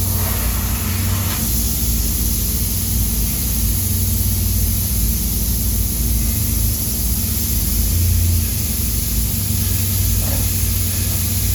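Steady low mechanical hum under an even hiss, like a running vehicle or machine.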